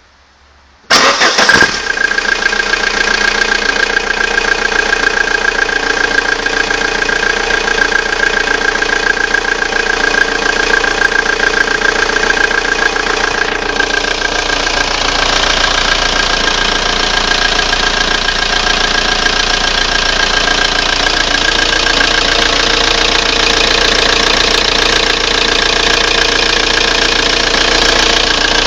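Audi 80's 1.9 TDI diesel engine, with 411,000 km on it, starting about a second in and then running steadily, with a steady high tone running through it. It carries a strange noise the owner cannot place.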